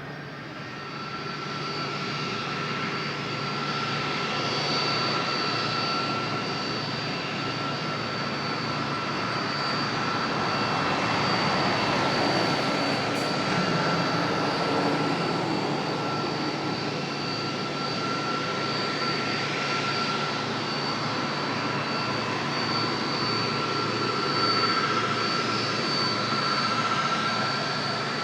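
Jet airliner's turbofan engines running loud and steady, with a high whine held over the engine noise; it grows louder over the first few seconds and swells again toward the middle and near the end.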